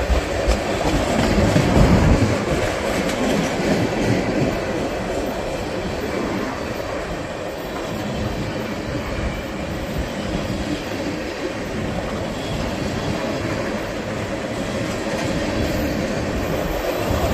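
Freight train cars rolling past, their steel wheels running steadily on the rails.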